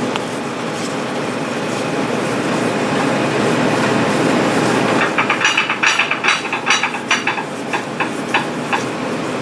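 Kitchen knife blade stroked up and down on a wet 6000-grit polishing whetstone, a steady soft scraping. About halfway through, a quicker run of short, sharp scraping strokes, about four a second, then it eases off.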